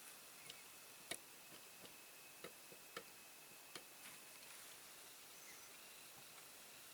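Near silence with a few faint, sharp clicks at irregular intervals, the strongest about a second in.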